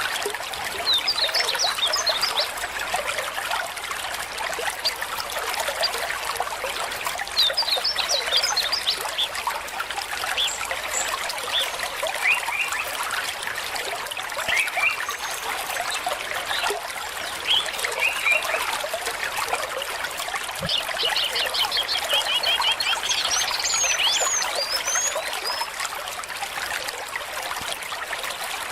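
Small stream trickling and babbling over stones, a steady water noise, with short series of high chirps and trills from birds coming and going, busiest in the last third.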